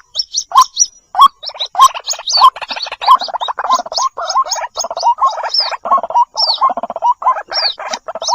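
White-breasted waterhen (ruak-ruak) calls, played as a bird-trapping lure of chicks calling their mother: rapid high peeps repeating several times a second over a dense run of quicker, lower chattering calls.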